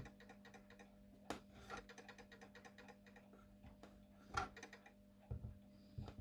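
Faint clicks and a few light knocks from a Napoleon mantle clock being lifted and set down on a flat surface, over a steady low hum.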